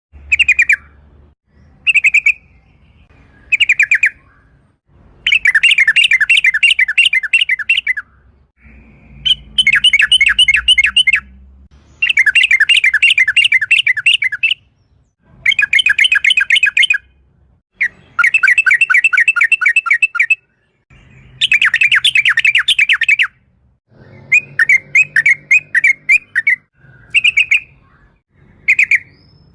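Yellow-vented bulbul (trucukan) calling in rapid, rolling rattled phrases. After three short notes at the start, it settles into longer bursts of one to three seconds each, separated by brief pauses.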